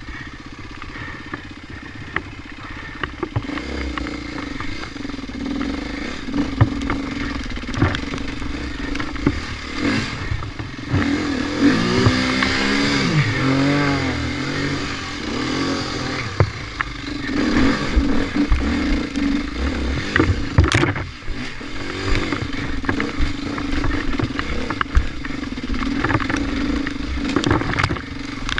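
Off-road dirt bike engine running on a muddy trail. About a third of the way in the revs rise and fall for several seconds, and there are scattered clatter and knocks from the bike over rough ground.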